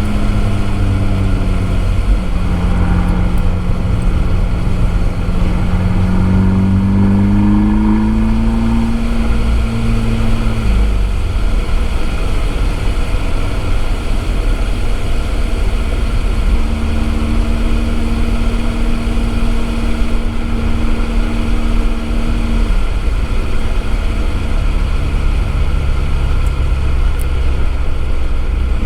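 Abarth 595 esseesse's 1.4-litre turbo four-cylinder engine through an Akrapovič exhaust, heard from a microphone in the boot while driving: the engine note climbs steadily for several seconds under acceleration, drops suddenly just before the halfway point, then holds a fairly steady pitch. A constant hiss of road and tyre noise runs beneath it.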